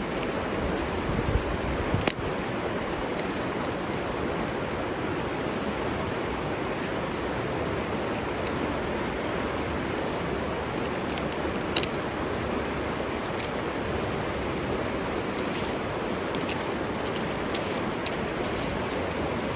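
River water flowing with a steady rush, with scattered sharp clicks now and then.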